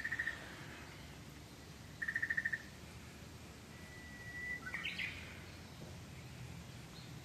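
Small bird calling: two short, rapid trills about two seconds apart, then a thin whistled note that breaks into a brief chirp, over a faint steady hiss.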